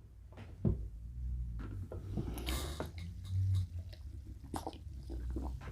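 Soft sips and swallows of a cold Coke Zero, with small wet mouth clicks and one brief fizzy hiss about two and a half seconds in.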